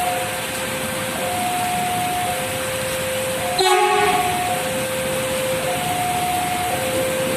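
Heavy rain hissing while a level-crossing warning alarm alternates between two tones, each held about a second. About three and a half seconds in, the KRL KfW i-9000 electric commuter train sounds a short horn blast.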